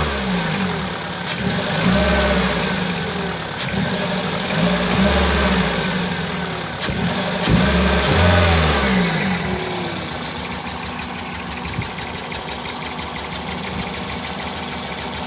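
2001 Toyota Celica's four-cylinder VVT-i engine revved briefly three times, then settling to an idle with a fast, even pulsing. The engine is misfiring on cylinders two and three and shakes at low revs.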